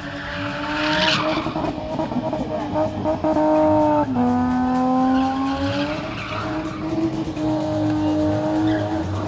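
Car engine held at high revs while the car spins on the spot, with tyres squealing. The revs drop sharply about four seconds in, then climb back up and hold.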